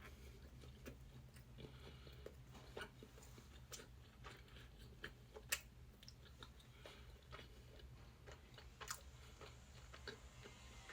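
A person chewing a mouthful of chicken sandwich on toast: faint, irregular mouth clicks and crunches over a steady low hum.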